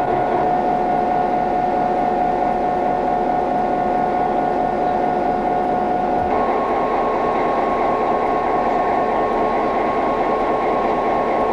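Train locomotive running steadily with a constant hum. About six seconds in, the hum's pitch steps up and then holds.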